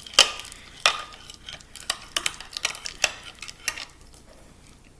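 Ice cubes clinking in a cup of iced coffee: a run of irregular light clicks, the loudest in the first second.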